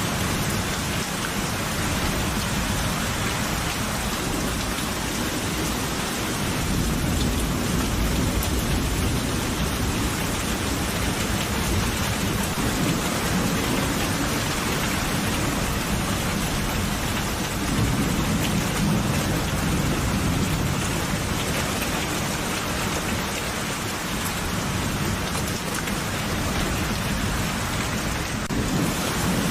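Steady heavy rain with low rolling thunder that swells twice, about a quarter of the way in and again past the middle.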